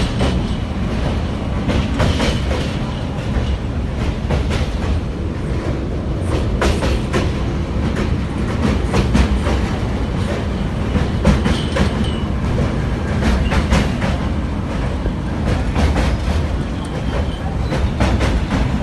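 Passenger train running on the track: a steady low rumble with irregular clicks and clacks of the wheels over rail joints.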